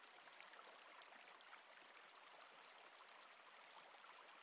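Faint, steady babbling of a river or stream, with small trickling ticks.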